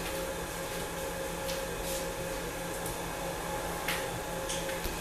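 Steady room hum with a few faint short clicks, the clearest about four seconds in.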